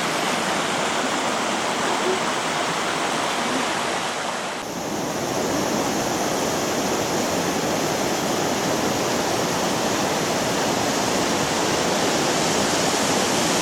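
Rushing water of a waterfall: a steady, dense roar of falling water. It dips briefly and changes character about four and a half seconds in.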